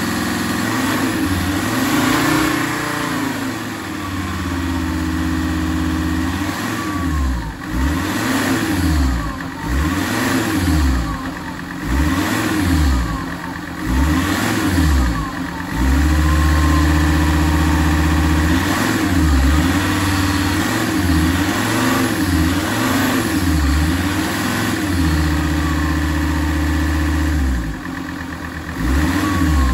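Alfa Romeo 166 2.4 JTDm five-cylinder turbodiesel being revved while standing: a run of quick blips that rise and fall about once a second, then held at raised revs for about ten seconds, then dropping back and blipped again near the end.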